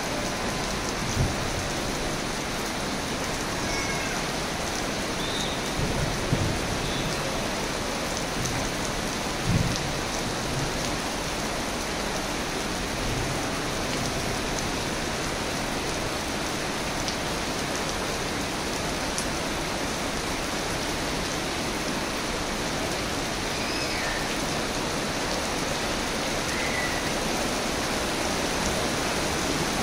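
Heavy rain pouring steadily on a wet paved street, an even hiss, with a few brief low thumps in the first ten seconds.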